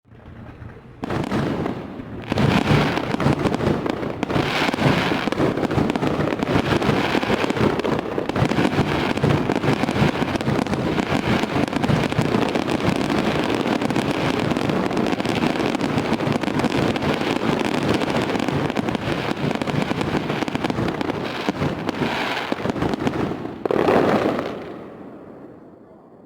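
Fireworks going off in a dense run of rapid bangs and crackling that builds about two seconds in, holds steady, and fades out near the end.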